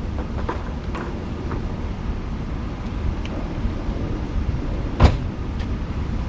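Wind rumbling on the microphone, with a few faint crackles and one sharp knock about five seconds in.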